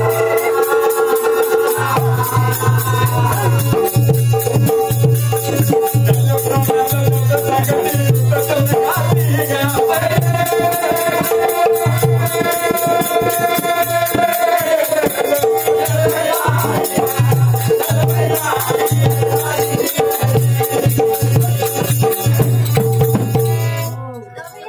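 Marathi folk music (kalgi-tura style). Constant jingling, rattling percussion runs over a steady drone, with a wavering melodic line above. It breaks off suddenly near the end.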